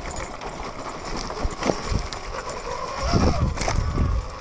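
Electric Sur-Ron dirt bike riding over rough trail, with irregular knocks and clatter from the bike and terrain. A faint motor whine rises and falls about three seconds in.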